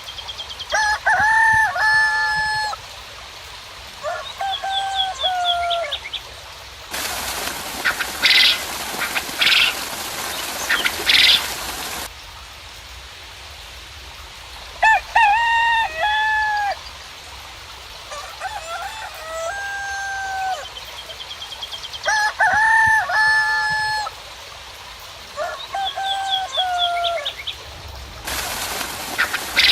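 Chickens calling and a rooster crowing over and over, with small birds chirping high above. A steady hiss of rain cuts in abruptly for about five seconds in the middle and again near the end, with three sharp, high calls over it.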